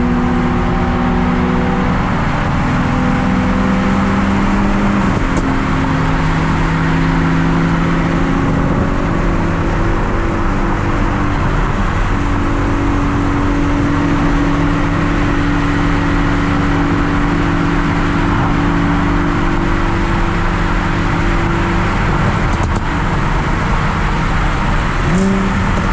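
Car engine and exhaust running steadily, its pitch holding for a few seconds at a time and then stepping up or down.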